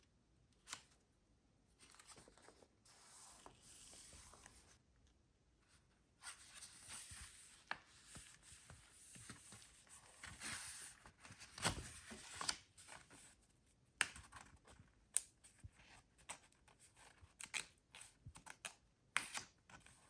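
Paper being worked by hand: stretches of rustling and scraping paper, broken by sharp taps and clicks.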